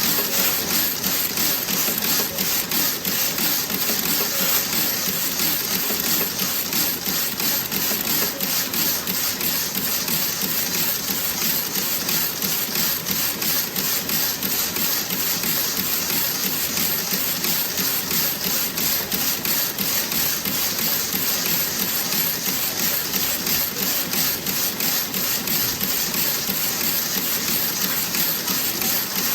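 Toe-sock knitting machine running, a steady, rapid mechanical clatter of evenly repeating clicks.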